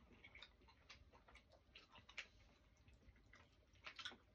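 Near silence with faint, irregular small clicks, the mouth sounds of someone chewing a chocolate button.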